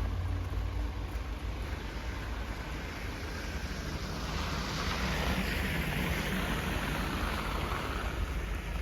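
Snowstorm wind blowing with a steady rumble of wind buffeting the microphone, swelling into a stronger gust about halfway through.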